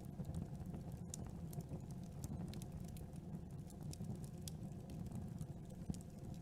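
Campfire burning: a steady low rumble of flames with many small, sharp crackles and pops of burning wood, several a second.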